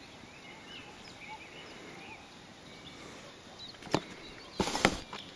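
Faint bird chirps, then a sharp click about four seconds in and a short, noisy rustle near the end.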